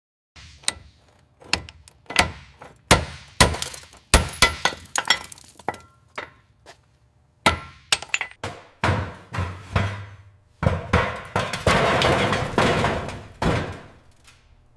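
An irregular series of sharp impacts with ringing clinks, building to a denser crashing clatter for about three seconds near the end.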